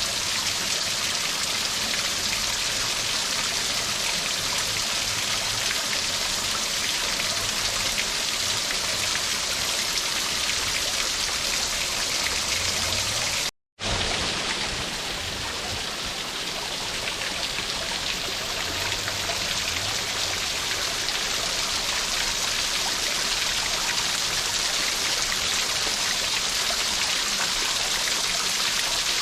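Steady hiss of running water. It cuts out for a moment about halfway through, then carries on.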